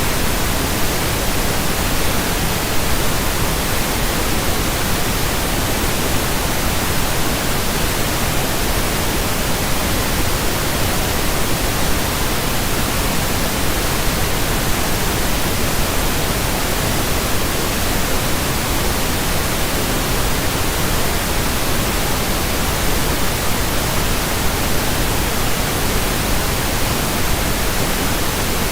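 Steady pink noise: an even, constant hiss spread across the whole range from deep to high, with no changes or events.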